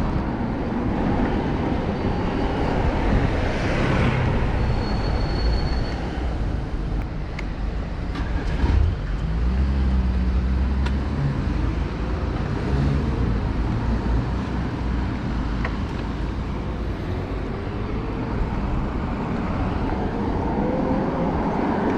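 City road traffic: cars and other motor vehicles running past on the street, with a deeper engine rumble close by for a few seconds near the middle.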